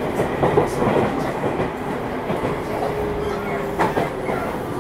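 Running sound of a Seibu 6000 series electric train at speed: wheels rumbling on the rails with rail-joint clicks. A steady motor tone comes in about halfway through, and a couple of sharp clicks sound near the end.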